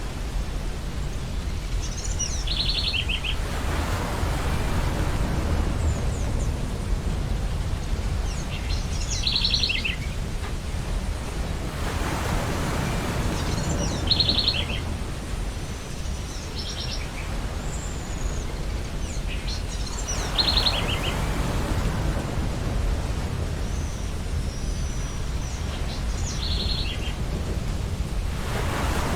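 Ocean surf: a steady low rumble with a wave washing in about every eight seconds. Over it, a bird's short, high, rapidly pulsed call repeats about every six seconds.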